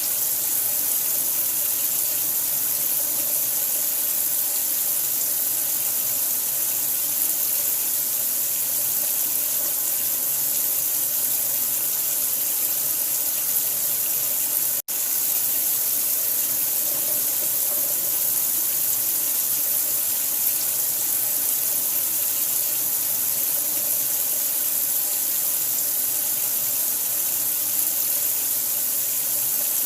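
Steady rush of running water, an even hiss heavy in the high end, used as sleep sound for a newborn. It cuts out for an instant about halfway through.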